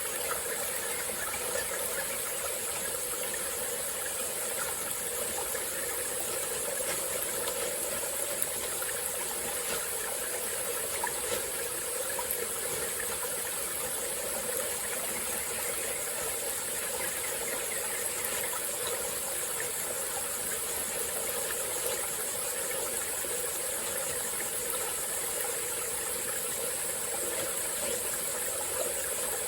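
Small tropical forest stream flowing steadily, with a constant high-pitched insect chorus above the water.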